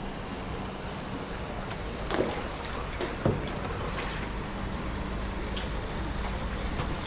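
Steady water and wind noise around a kayak on a creek, with a couple of knocks about two and three seconds in.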